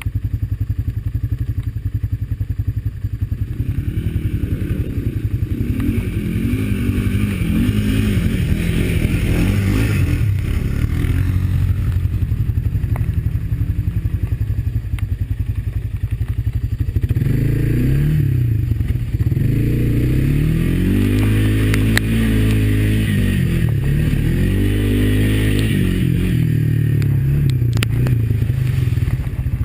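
Honda ATV's single-cylinder four-stroke engine running under load on a muddy trail, its pitch rising and falling again and again as the throttle is worked, with a few knocks and clatter.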